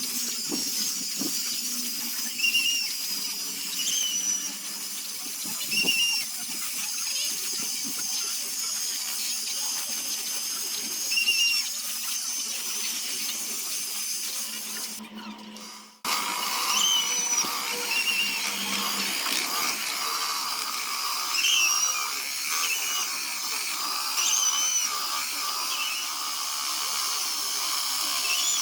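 A power tool whirring steadily against wood with a high-pitched whine. It fades out briefly about halfway through and starts again abruptly.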